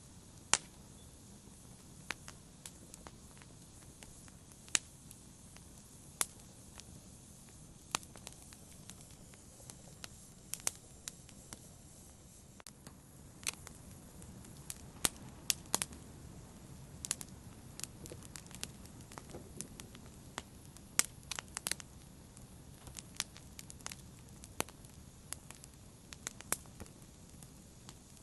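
Fire in a fireplace crackling: irregular sharp pops and snaps over a low, steady rush of flames, the pops coming more often in the second half.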